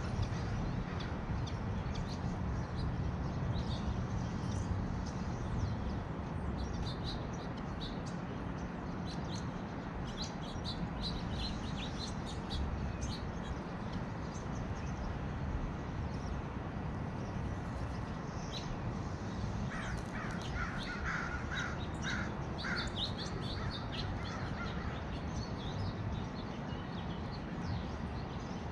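Wild birds calling outdoors: scattered short, high chirps throughout, and about twenty seconds in a run of about seven short, lower calls in quick succession, over a steady low rumble.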